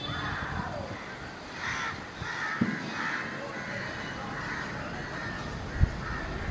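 Birds calling harshly several times in a row over the first few seconds, with a sharp low thump near the end.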